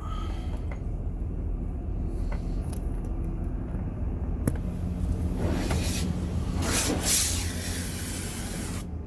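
Steady low rumble of a van's idling engine heard from inside the cabin. About four and a half seconds in there is a click and a steady hum starts, and soon after a loud rushing hiss swells for a couple of seconds.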